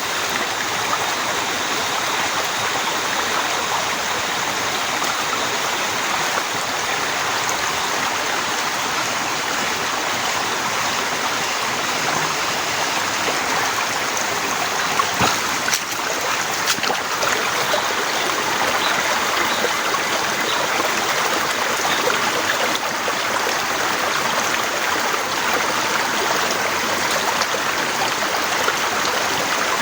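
Heavy rain falling steadily, a continuous rushing hiss, with a few sharp taps about halfway through.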